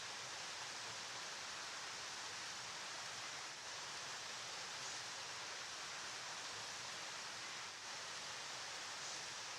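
River water flowing, a steady, even rushing hiss with no change in level.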